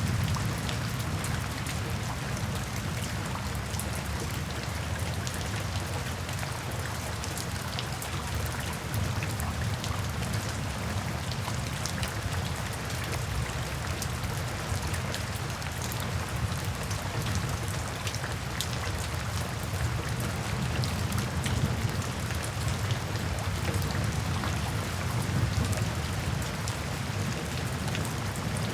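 Steady rain falling, a continuous even wash of noise with countless fine drop ticks and a low rumble underneath.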